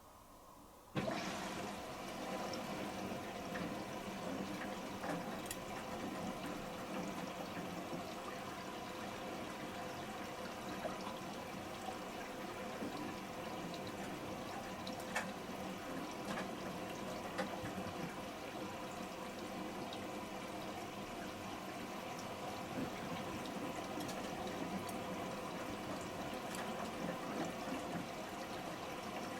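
Samsung Series 5+ AI SmartThings washing machine taking in water for its first rinse: the water starts rushing in suddenly about a second in and runs on steadily.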